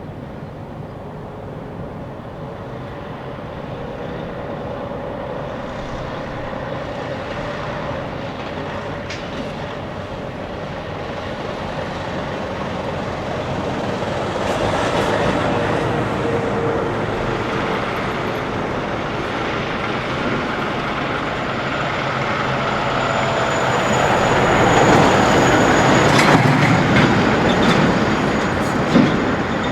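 A large vehicle drawing closer and passing, its noise building slowly and loudest about three-quarters of the way in, with one sharp knock near the end.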